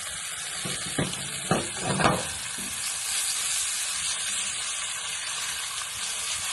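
Chicken pieces frying in hot oil in a frying pan, a steady sizzle. A few short knocks come between about one and two and a half seconds in.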